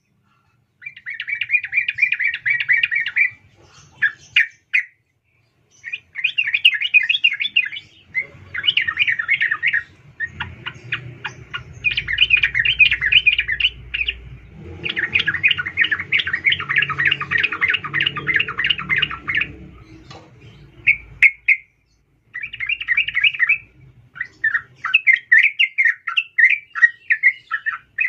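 Sooty-headed bulbul (trucuk) giving bouts of rapid chattering calls, one after another with short pauses, offered as a female calling a male. A faint low rumble runs underneath through the middle.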